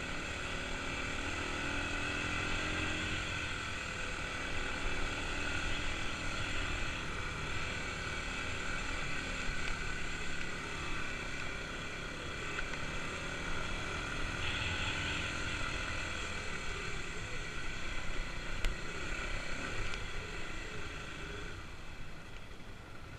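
Kawasaki KLX250's single-cylinder four-stroke engine running steadily under way on a trail ride, with small rises and dips in level.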